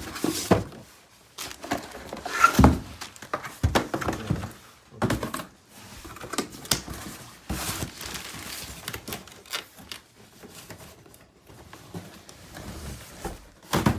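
Irregular knocks, clicks and short scrapes of hard plastic parts being handled and pried apart while a robot vacuum's filter is worked out.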